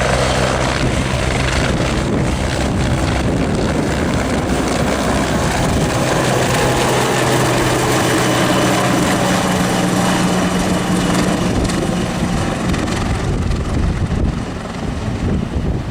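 Helicopter's turbine engine and rotor running loudly, with a steady low drone that fades and returns, over wind buffeting the microphone. The sound eases off near the end.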